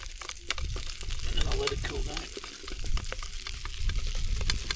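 Food frying in a pan on a Trangia camping stove, sizzling with many small crackles.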